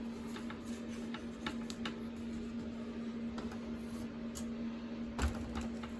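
Space heater running with a steady electric hum, with a few faint ticks and a soft knock about five seconds in.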